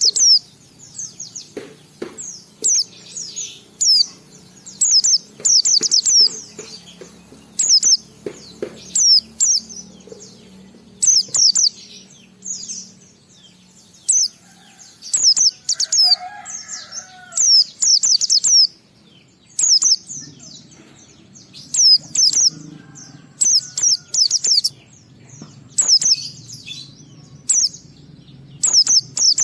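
White-eye (pleci) in full song: bursts of rapid, high, thin twittering notes, repeated every second or so.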